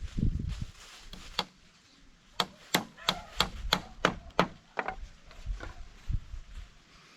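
Wood being struck or chopped: a quick run of about seven sharp chops, about three a second, starting about two and a half seconds in, then a few lighter knocks.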